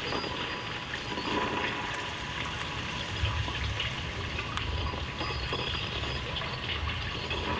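Steady rushing noise with a low rumble that swells about three seconds in, and a few faint clicks.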